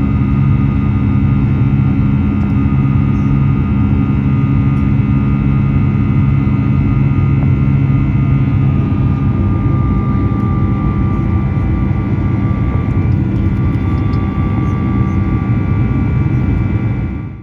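Boeing 737-8 MAX's CFM LEAP-1B turbofan engines at high power heard inside the cabin: a steady loud roar with held whining tones over it. About halfway through, the low hum eases a little while a higher whine steadies.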